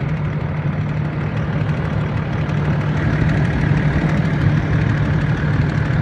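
Land Rover Discovery 4 running at idle with a steady low hum. A faint high tone comes in about halfway through. This is the noise the owner calls annoying.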